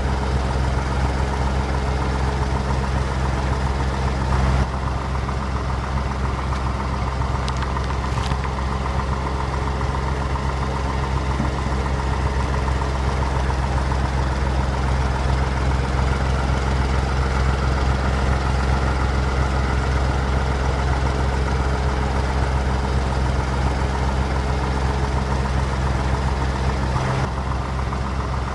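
A vehicle engine idling steadily with a low hum. The sound shifts abruptly about four and a half seconds in and again near the end.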